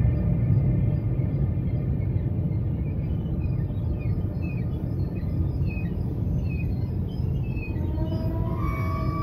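KORAIL passenger train rolling slowly past, a steady low rumble of wheels on rail. Birds chirp in the middle, and near the end a whine rises in pitch.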